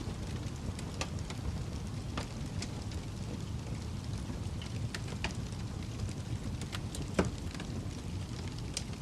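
Fireplace fire crackling, with scattered small crackles over a low steady rumble and one louder pop about seven seconds in.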